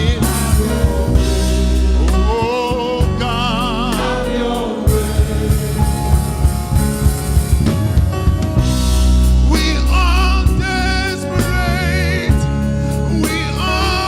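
Live gospel music: a voice singing with wide vibrato over a band with deep bass and drums.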